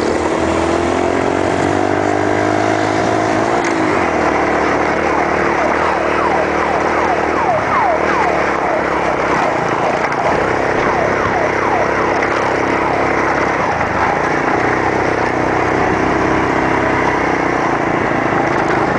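Small motorcycle engine running under way, rising in pitch over the first three or four seconds as the bike picks up speed, then running at a fairly steady speed with small changes of throttle.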